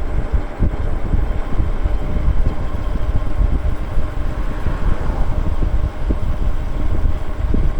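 Wind buffeting the microphone of an e-bike cruising at about 25 miles an hour, a steady gusting rumble with road noise beneath it.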